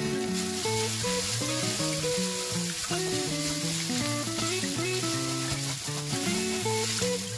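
Fresh ho fun rice noodles sizzling steadily in a hot nonstick frying pan as they are stirred and turned with chopsticks, over background music.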